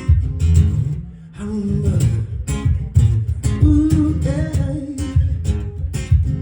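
Live band music: a strummed guitar and bass keep a steady beat, with a short wordless vocal line gliding over it in the middle.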